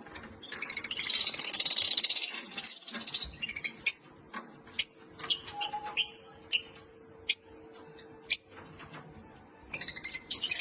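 Lovebirds chattering and chirping: a burst of shrill twittering in the first few seconds, then single sharp high chirps every second or so, and a quick run of repeated chirps near the end.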